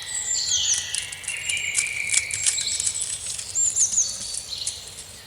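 Jungle ambience of several birds calling: quick chirps and clicks with short falling whistled notes, and a longer call sliding down in pitch around the middle.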